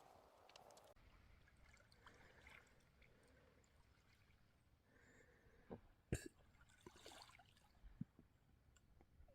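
Near silence, broken by a few faint knocks and clicks. The sharpest comes about six seconds in, and another near the end.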